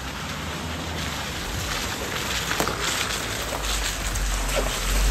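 Steady rain pattering, with a low rumble that grows louder in the last second or so.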